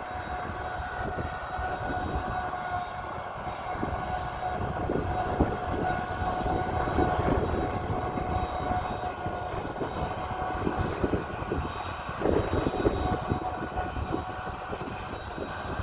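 Heavy diesel harvesting machinery running under load, a steady high whine over a ragged rumble that swells twice.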